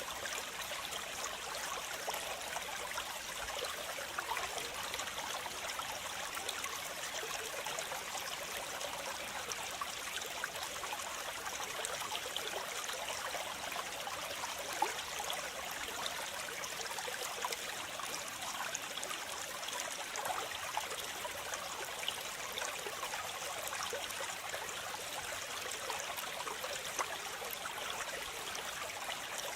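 Waterfall: water falling and splashing in a steady hiss, with small splashes and trickles through it and little deep rumble.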